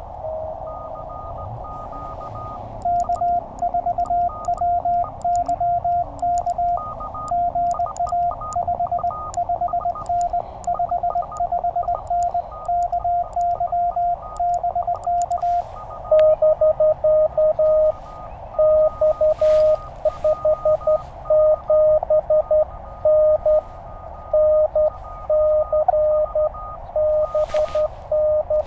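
Morse code on a Penntek TR-35 transceiver over steady band hiss. For about twelve seconds a higher-pitched tone is keyed with faint paddle clicks, the operator's own sending. Then a slightly lower-pitched tone keys back, another station's reply.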